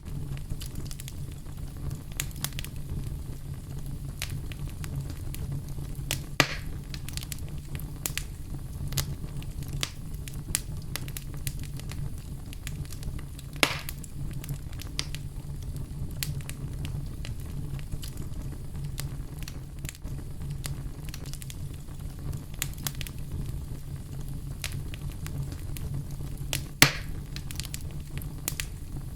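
Wood fire burning in a fireplace with a steady low rumble and scattered crackles and pops, the sharpest pops about six seconds in, near the middle and near the end.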